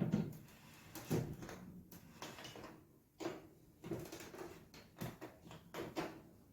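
Irregular knocks and clunks, about six in a few seconds, with scraping and rubbing between them: parts of a microwave being handled and wiped during cleaning.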